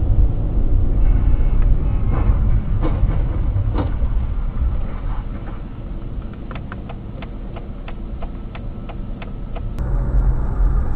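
Car driving: a steady low rumble of engine and road noise, with scattered sharp clicks and ticks, about three a second in the second half.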